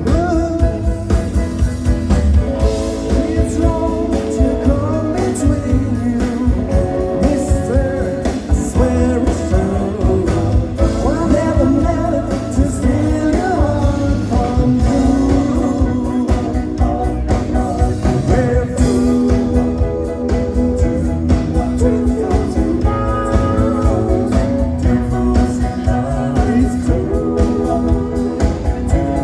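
Rock and roll band playing live: a singer over guitar and a steady drum beat.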